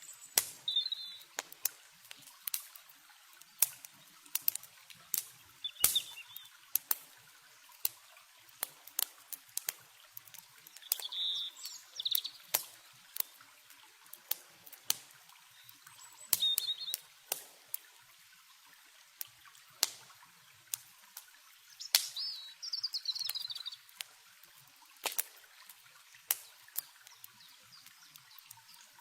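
Campfire wood crackling, with sharp irregular pops, over a faint steady wash of river water. Short bird chirps come in now and then, with a longer run of calls about twenty-two seconds in.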